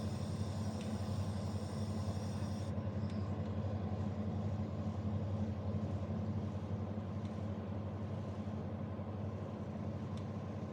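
Vortex mini split air conditioner running with a steady low hum and airflow noise. A hiss in the upper range drops away about three seconds in.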